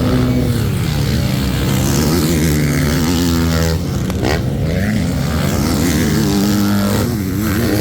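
Several motocross bikes racing on the track, their engines revving up and falling back as they accelerate and shift, the pitches overlapping and rising and falling.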